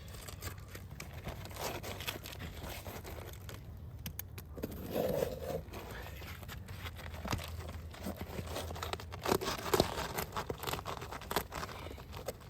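Roofing shingles and the underlayment stuck to them being pried up and handled: irregular tearing, crinkling and scraping with scattered sharp clicks, loudest about three-quarters of the way through.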